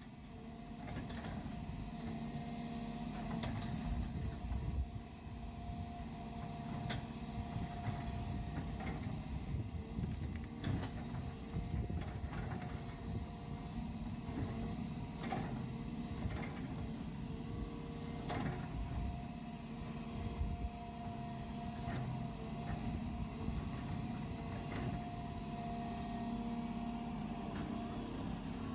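Engine of a hydraulic grapple machine running steadily, with scattered short knocks and clanks of the working machinery.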